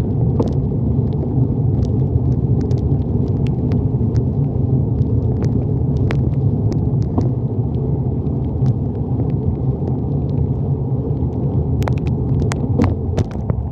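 Wind rumble on a handlebar-mounted phone's microphone while riding a bicycle in the rain: a steady low buffeting with scattered sharp ticks throughout.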